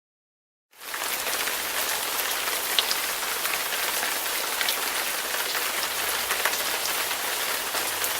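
Steady rain falling: an even hiss with scattered drop ticks that comes in suddenly about a second in, after dead silence.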